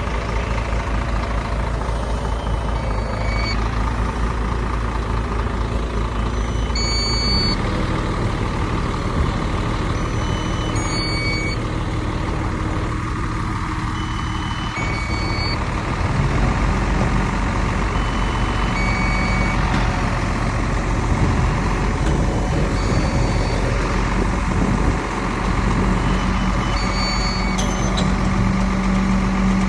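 Heavy diesel earthmoving machinery running steadily, its engine note shifting twice, while reversing alarms sound short high beeps every few seconds.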